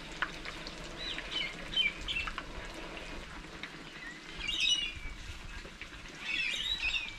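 Wild birds calling in short chattering bouts of high chirps, three or four times.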